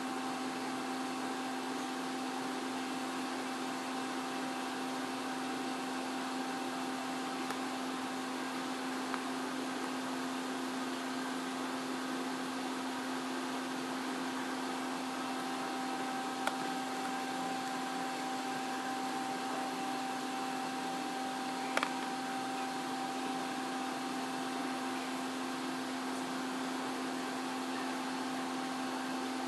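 Steady mechanical hum over an even hiss, holding two fixed tones, with a couple of faint clicks partway through.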